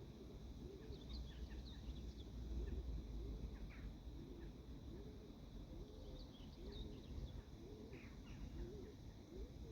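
Birds calling outdoors: a low, arched call repeats about every two-thirds of a second, with short high chirps scattered over it. A steady low wind rumble on the microphone lies underneath.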